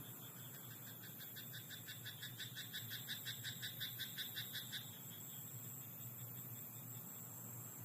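A frog calling: a rapid, even run of croaks, about six a second, growing louder and then stopping abruptly near five seconds in, over a steady high background of insects.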